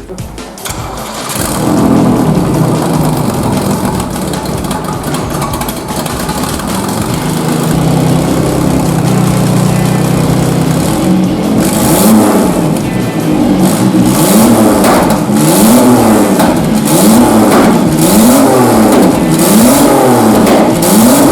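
Turbocharged Pontiac Fiero engine coming to life, idling steadily, then revved up and down over and over, about once a second, with a hiss on each rev.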